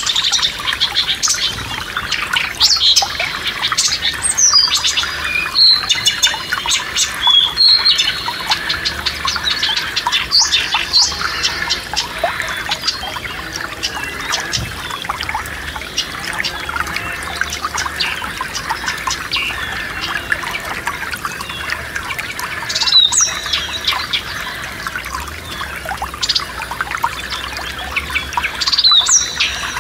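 Several songbirds chirping and calling throughout over the steady rush of a forest stream.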